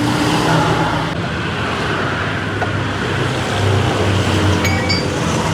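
Road traffic noise: vehicle engines running with a steady low hum under a constant wash of road noise.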